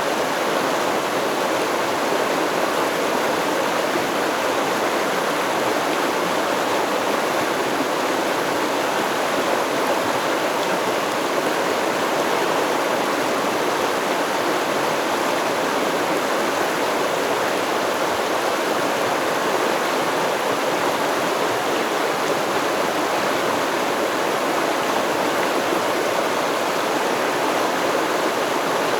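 Stream water flowing, an even, unbroken rush with no changes.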